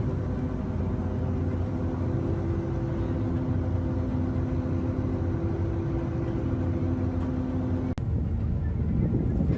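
A steady engine drone: a low rumble with several held hum tones, broken by a sharp click about eight seconds in.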